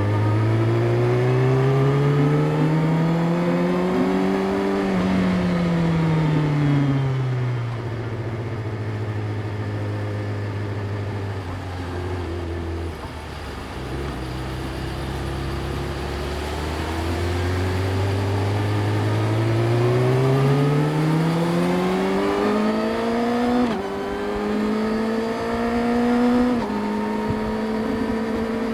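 Yamaha YZF-R6's inline-four engine under way. Its revs climb, then drop and hold steady for a while. Then it climbs again through two quick upshifts, each heard as a sudden drop in pitch, and settles at a steady cruise.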